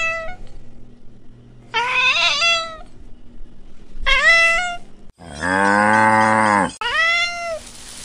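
Ginger-and-white domestic cat meowing again and again, about every two seconds, each meow bending up and then down in pitch. From about five to seven seconds in comes one longer, much deeper, steady call that starts and stops abruptly; it is the loudest sound.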